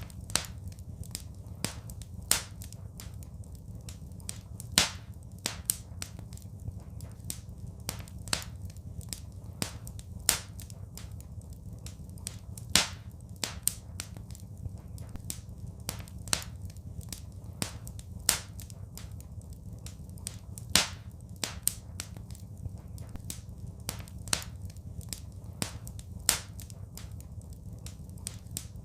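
Wood fire crackling: irregular sharp pops and snaps, a few louder ones every second or two, over a steady low rumble.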